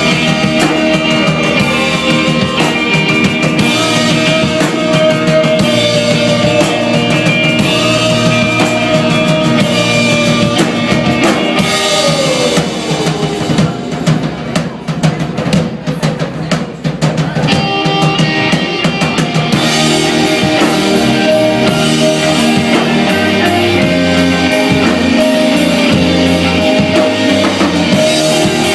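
Rock band playing live with a full drum kit driving the song; about halfway through the band thins out and drops in level for several seconds, then comes back in full.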